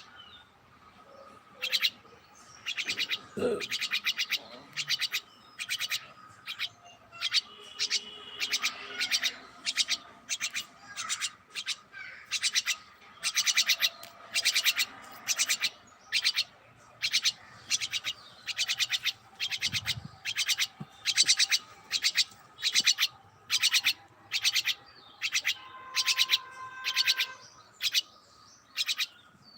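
Pet birds chirping in quick repeated bursts, each a rapid run of short chirps, with only brief pauses between them.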